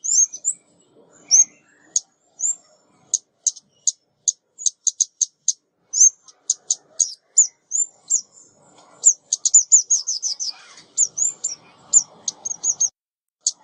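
Decoy recording of a female ốc mít, a small Vietnamese songbird, calling. It gives a quick series of short, high-pitched chips and down-slurred notes in irregular runs, speeding into a rapid string about nine seconds in.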